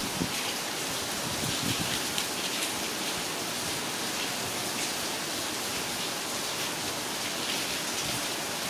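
Heavy rain falling steadily, pattering on surfaces, with a few louder drops near the start.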